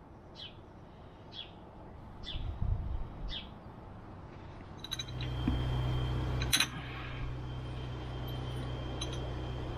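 A bird chirping in short high calls about once a second. About halfway in, a steady low rumble with a thin high whine begins, broken by a few sharp clicks, the loudest about two thirds in.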